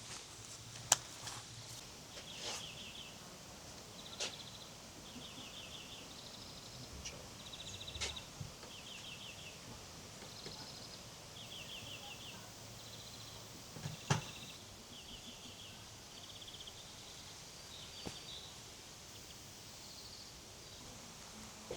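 Quiet outdoor ambience with short, high, buzzing chirps repeating about once a second, and a few sharp clicks or knocks.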